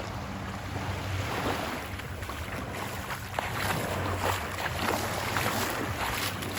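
Ocean surf washing up on a sandy beach, its foamy hiss swelling about three and a half seconds in, with a low rumble of wind on the microphone.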